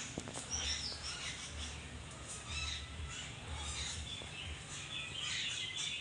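Several small birds chirping and calling, short high notes with a quick falling call about half a second in and a busier burst of chirping near the end, over a low rumble that pulses about once a second.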